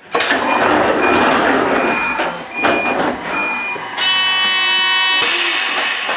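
Toyama Chihō Railway 14760-series electric train running, with a loud steady rumble and a short high beep repeating about every second. About four seconds in, a steady horn blast sounds for a little over a second.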